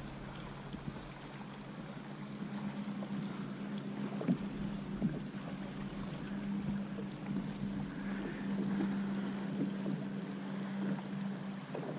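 A steady low hum that grows a little stronger a couple of seconds in, over a light hiss of wind, with scattered small taps.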